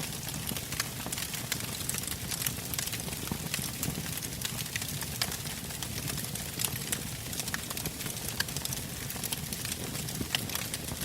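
Wood fire burning: logs crackling with many small, irregular pops over the steady low rush of the flames.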